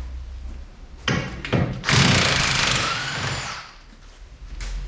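Impact wrench run in one burst of about two seconds, spinning on a bolt, after a couple of short knocks.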